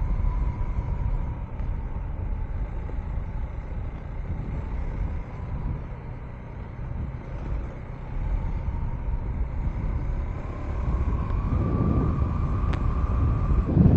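KTM 390 Enduro R's single-cylinder engine running while riding, with low rumble of wind and road. The engine eases off around the middle and picks up again near the end, its note rising slightly.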